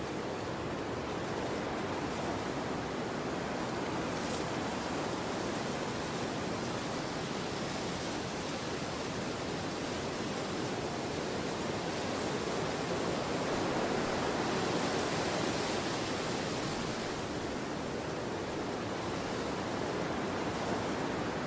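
Storm wind blowing hard, a steady rushing that swells into a stronger gust about two thirds of the way through.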